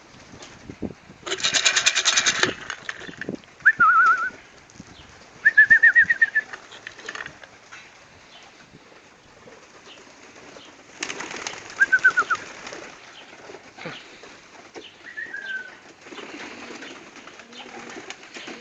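Young racing pigeons at their loft: two bursts of wing flapping, about a second in and again about eleven seconds in, with short series of quick, high chirping calls from the birds scattered between them.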